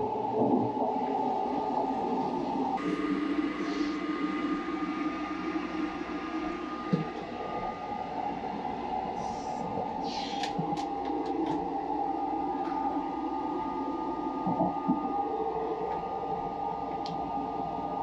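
Steady running noise of the Saphir Odoriko (E261 series electric train), heard inside its toilet room: a low rumble with several humming tones. A few light clicks and taps about ten seconds in as a hand handles the plastic fold-down baby changing table.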